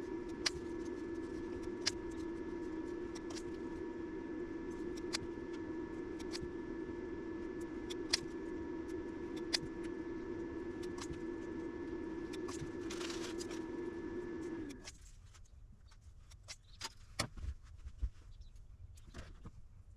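A steady machine hum with a faint whine, broken by sharp clicks every second or few, cuts off abruptly about fifteen seconds in; a few knocks and handling sounds follow.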